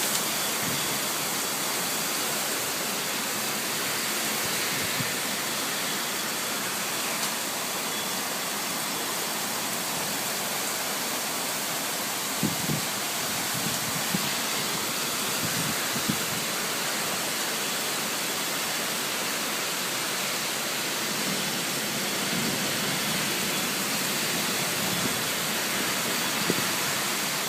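Heavy rain falling steadily, a dense even hiss, with a few short taps of drops around the middle.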